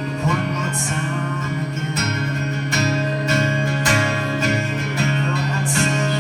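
Acoustic guitar strumming the closing chords of a song, a few separate strums ringing out, with a singer holding the final word over the first couple of seconds.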